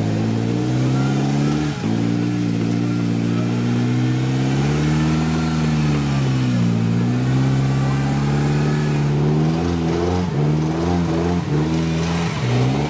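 Off-road vehicle engine running under changing throttle, its pitch rising and falling slowly, then a series of quick revs up and down near the end.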